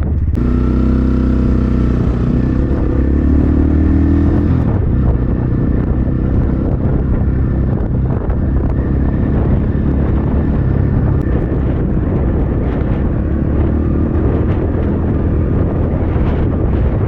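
Templar X 250 dirt bike engine running under way, its note climbing in the first few seconds and then dropping, under heavy wind rumble on the microphone.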